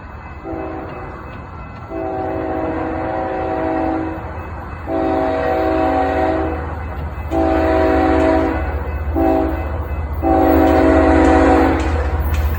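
Locomotive air horn sounding a chord in a series of blasts, short and long, the last three in the long, short, long run of a grade-crossing signal, over the low rumble of an approaching train that grows louder.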